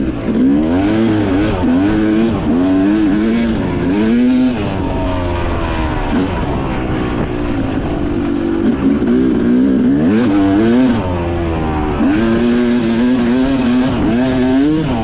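Dirt bike engine being ridden, its revs rising and falling over and over with the throttle and gear changes, over a steady rushing noise.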